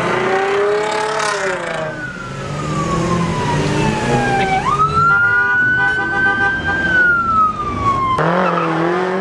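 A pickup truck's engine revving while its tires squeal in a long, wavering screech as it spins donuts; the engine rises and falls at the start and again near the end, and the squeal slides down in pitch, jumps up sharply about halfway through, then slides down again.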